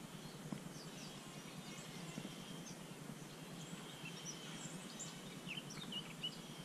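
Faint outdoor ambience of small birds chirping in short, quick high notes, scattered throughout, over a low steady background rumble.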